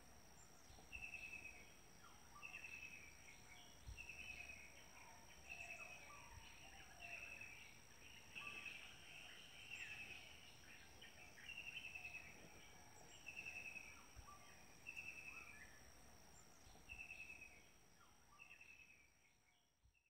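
Faint outdoor ambience: a bird repeats a short, slightly falling trilled call about every second and a half over a steady high insect drone, with a couple of faint low thumps. Everything fades out near the end.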